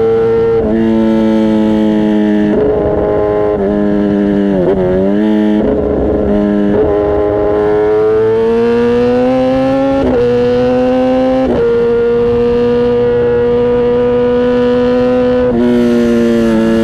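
Kawasaki ZX-10R's inline-four engine and exhaust at steady high revs. The pitch steps suddenly several times as the gears change, dips briefly about five seconds in, and climbs slowly in the middle as the bike accelerates.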